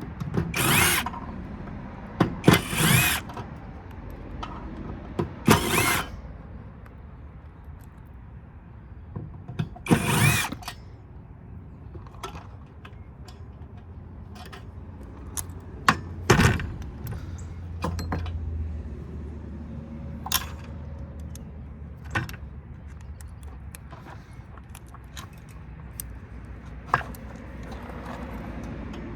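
A power drill/driver run in four short whirring bursts, about one, three, six and ten seconds in, with scattered clicks and clanks of metal parts between them while screws come out during disassembly.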